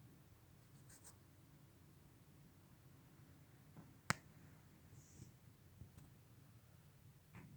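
Near silence: quiet room tone with a single sharp click about four seconds in, and a few fainter ticks.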